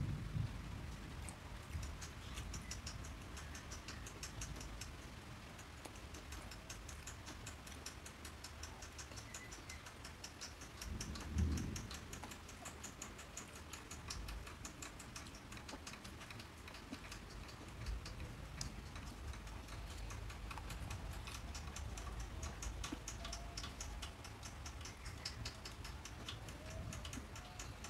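Close-miked chewing and mouth sounds of a man eating soft bread bun and sponge cake: a steady run of small, fast clicks. One short low thump about eleven seconds in.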